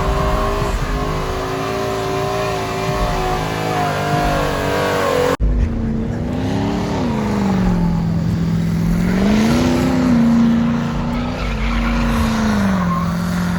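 Pickup truck engine held at high revs during a burnout, with tire noise from the spinning tires. Its pitch holds steady at first, then sags and climbs again several times. The sound drops out for an instant about five seconds in.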